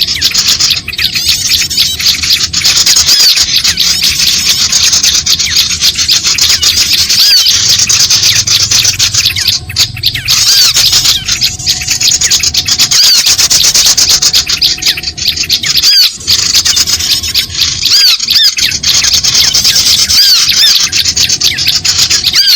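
Recorded bird-lure track of small wild birds chirping in a loud, continuous, dense chatter of rapid high notes.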